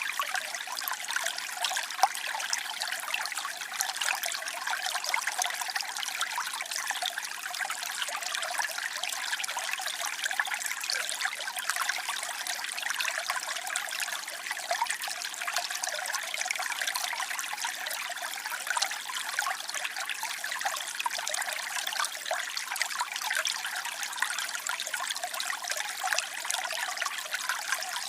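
Waterfall: water falling and splashing in a steady, even rush, lacking any low rumble.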